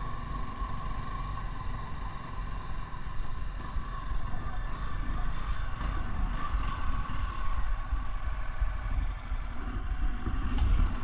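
Honda Tornado 300 trail motorcycle engine running steadily under load on a steep climb, with a held whine and a heavy low rumble.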